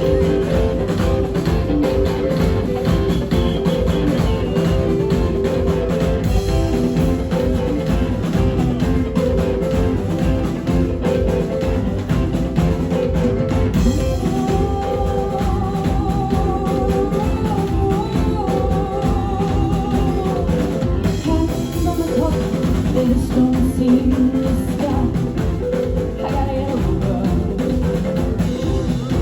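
Live rock band playing: drum kit keeping a busy, even beat under bass and guitar, with a held, wavering melody line coming in about halfway through.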